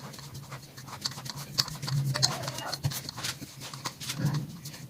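Scattered light clicks and taps of pastry dough being handled and rolled on a board, over a faint steady hum.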